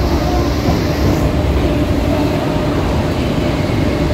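Mumbai suburban EMU local train running, heard from inside the coach: a steady rumble of wheels on the track with a faint steady hum.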